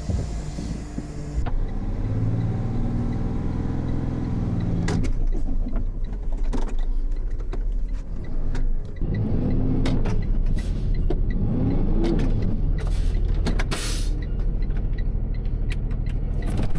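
Tow truck engine running under load as the truck tries to move in deep snow after sliding into a ditch. It revs up and back down twice around the middle, with scattered clicks and knocks.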